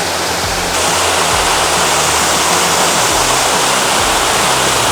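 Waterfall: a steady, loud rush of falling water that grows slightly louder and brighter about a second in.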